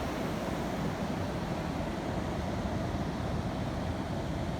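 Steady wind and ocean surf noise.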